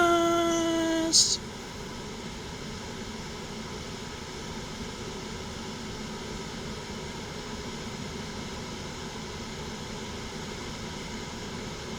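A singer's long held final note of the song, ending about a second in, then a steady low hiss of background noise.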